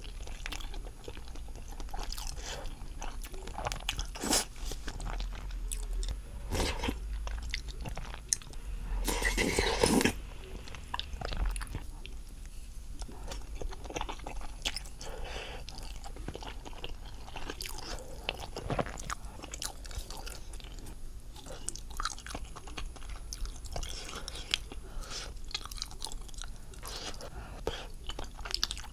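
A person eating close to the microphone, mukbang style: steady chewing and biting with many short wet clicks and smacks. A louder, noisier second comes about nine seconds in.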